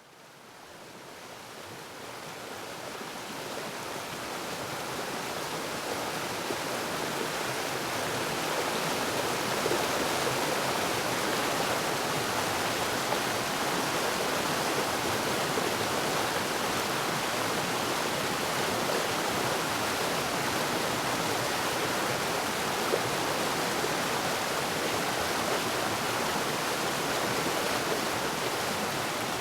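Waterfall: a steady rush of falling water, fading in from silence over the first several seconds and then holding level.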